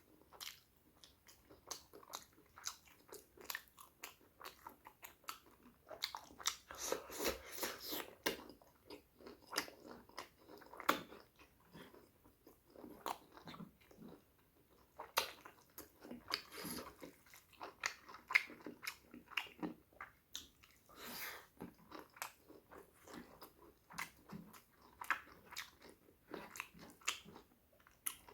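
Close-miked eating: a man chewing and biting into pork curry and rice, with irregular sharp mouth clicks and smacks several times a second.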